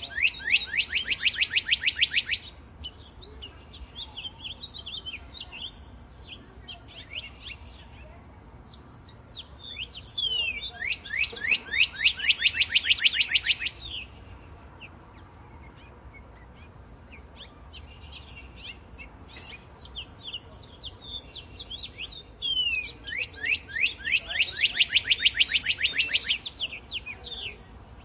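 Birdsong: one bird repeats a loud, fast trilling song three times, each a rapid run of high notes lasting about three to four seconds that opens with a few quick downward-sweeping notes, with softer chirps from other birds in the gaps.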